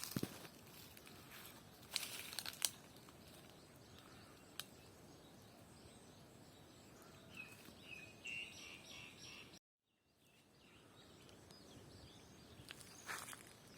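Footsteps crunching on the ground: a few steps at the start, a couple more about two seconds in, and another near the end. In between, a bird gives a quick series of short chirps. The sound cuts out completely for a moment partway through.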